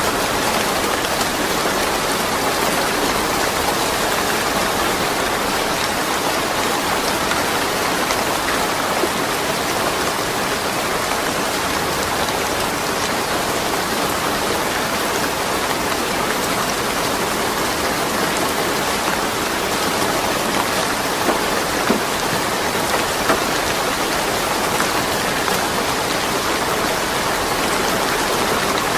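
Steady rain falling, an even hiss of drops on surfaces with no thunder, a few louder drops standing out near the end.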